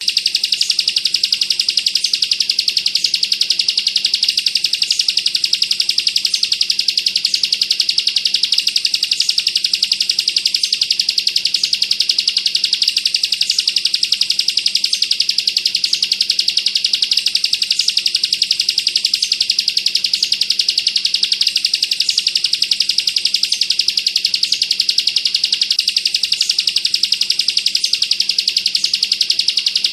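Bar-winged prinia (ciblek kristal) singing its 'bren' song, a very fast, unbroken trill held at a steady level.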